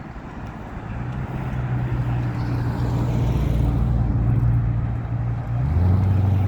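A car engine runs and grows louder as it approaches, with a steady low note. Near the end the note steps down to a lower pitch.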